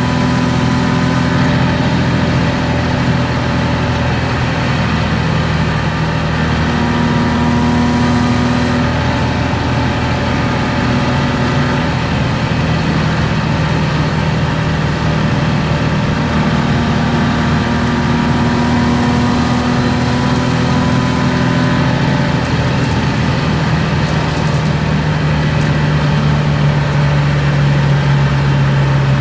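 BMW M50B25 2.5-litre inline-six with aftermarket headers and exhaust, heard from inside the cabin at a steady cruise. The engine note holds nearly steady, with only small shifts in pitch.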